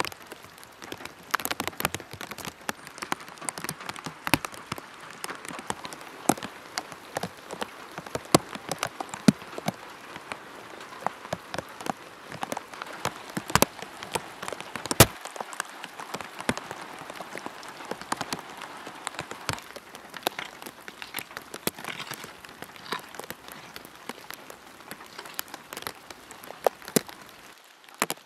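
Steady rain falling, with many sharp, separate drop hits over an even patter.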